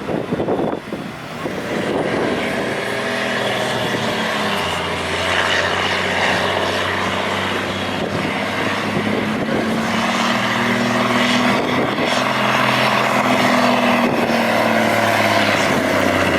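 Pulling truck's engine running hard at high, steady revs under full load while dragging the weight sled down the track.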